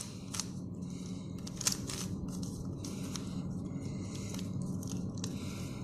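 Plastic 3x3 puzzle cube being handled and its layers turned: a string of irregular sharp clicks and light scraping of plastic pieces.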